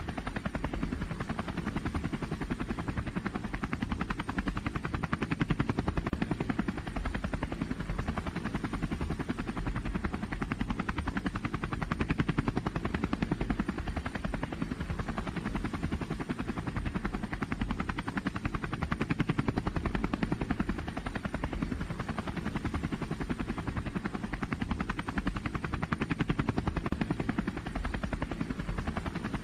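Engine of a pulling vehicle at a truck and tractor pull, running hard with a rapid pulsing beat, its level swelling and easing every six or seven seconds.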